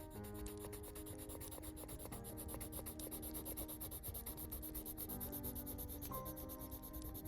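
Pen scratching across paper in continual writing strokes, over soft lofi music with held notes.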